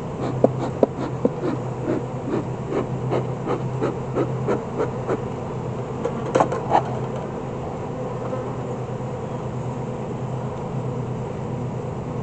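Honeybees buzzing steadily around an open hive, with a run of short wooden clicks and scrapes in the first five seconds and a louder pair of knocks about six seconds in.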